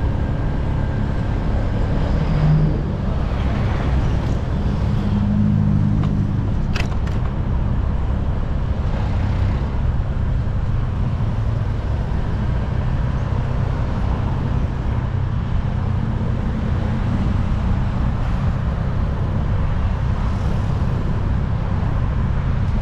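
Steady low rumble of road traffic, with a brief low tone about two and a half seconds in and a short click near seven seconds.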